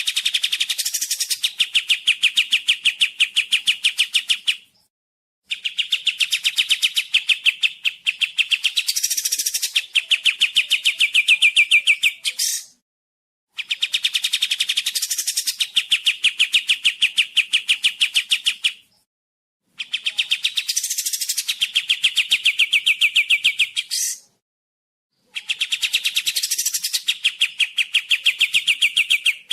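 Kapas tembak songbird singing: repeated bouts of a very rapid, clicking trill, each a few seconds long with higher sweeping notes in it and broken by short pauses. It is a clear recording used as a mastering song for other songbirds to copy.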